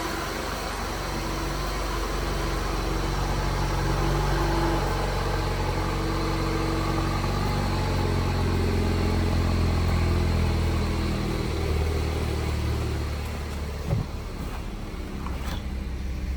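2016 Cadillac ATS 2.0L turbocharged four-cylinder engine running steadily at idle, with one sharp click near the end.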